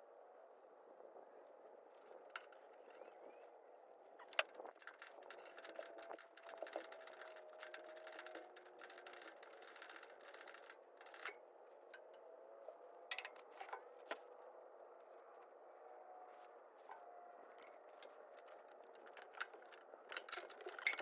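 Wrenches and metal hose fittings clinking and scraping, with irregular sharp clicks and taps over a faint steady hum.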